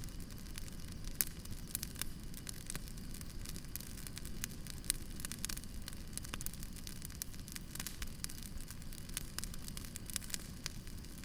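Campfire crackling: frequent irregular sharp snaps and pops over a low, steady noise of the burning fire.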